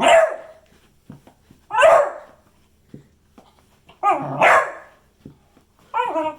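A beagle barking in a small room: single loud barks about every two seconds, a double bark around four seconds in, then a longer wavering call with falling pitch near the end.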